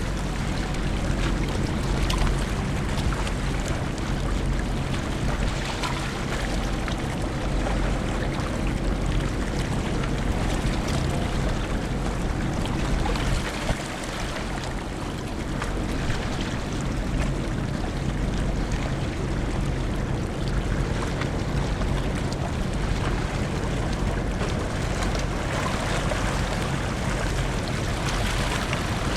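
Hankyu Ferry's car ferry Ferry Suou with its engines giving a steady low hum, under a constant rush of wind and water.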